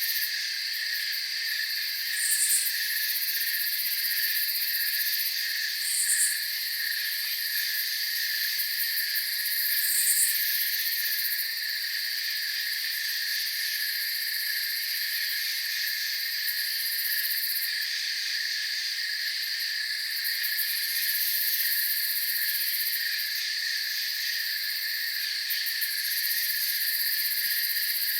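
Steady chorus of crickets trilling together, with a short, higher chirp repeating about every four seconds during the first third.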